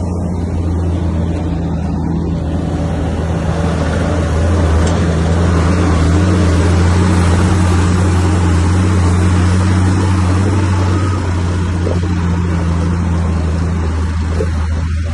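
Heavy diesel engine of an earthmoving machine running, a steady low drone that grows louder a few seconds in and eases off again near the end.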